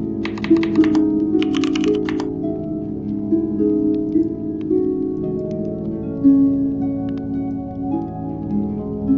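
Calm background music of soft plucked, harp-like notes, with a quick run of computer keyboard typing in the first two seconds.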